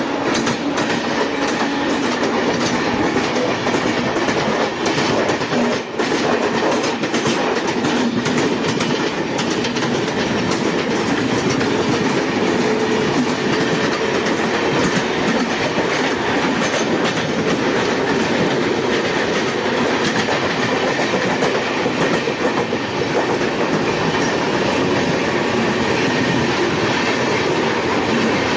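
A local train and the Sealdah Rajdhani Express running side by side at speed: a loud, steady rumble of wheels and coaches with a rapid clickety-clack over the rail joints, the clicks thickest in the first third.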